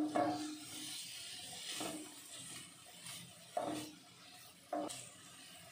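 Paneer cubes sizzling softly in hot oil and ghee in a non-stick pan, while a spatula scrapes and knocks against the pan four times, turning the cubes.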